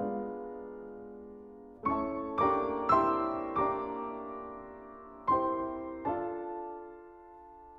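Slow, gentle piano music: notes and chords struck a few at a time, each left to ring and fade away.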